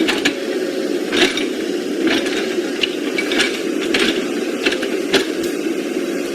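Small electric motor and plastic gearbox of a radio-controlled construction model running with a steady hum, with irregular clicks and rattles over it.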